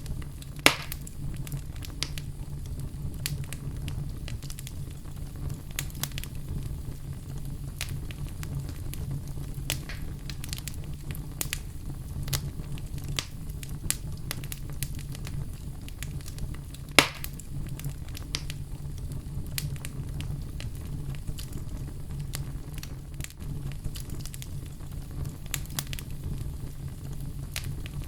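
Wood fire crackling in a fireplace: a steady low rumble of flames with frequent small snaps, and two loud pops, one right at the start and one about halfway through.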